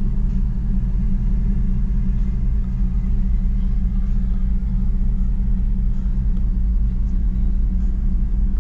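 1967 Chevy C10 pickup's engine idling with a steady low rumble, heard from inside the cab.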